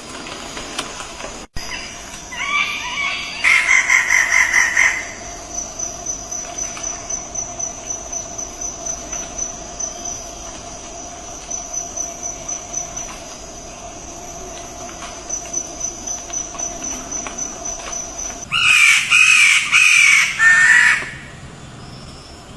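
Birds calling loudly in two spells, a couple of seconds in and again near the end, over a steady, fast-pulsing high trill like crickets.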